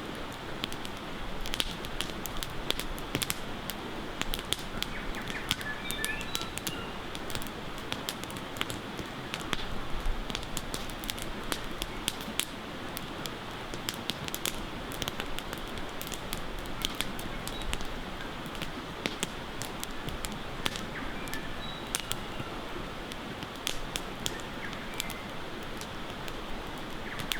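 Campfire crackling, with frequent sharp pops over a steady rush of river water. A few short bird chirps come and go.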